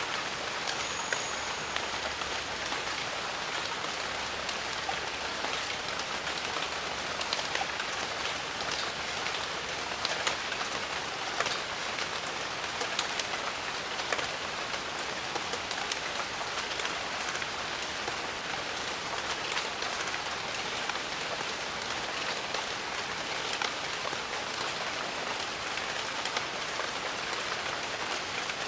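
Steady jungle rain falling, an even hiss with many individual drops heard as small close ticks.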